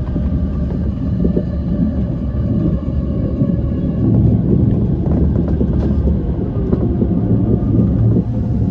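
E235 series electric train running along the line, heard from inside the front car: a steady low rumble of wheels on track with a few faint steady tones above it. It gets a little louder about four seconds in.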